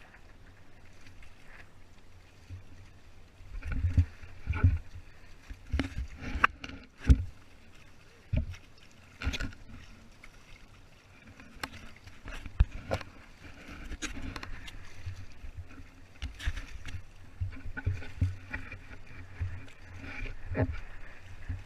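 Hobie Tandem Island kayak under way on the sea: irregular knocks and thumps of water against the hull over a faint steady hiss.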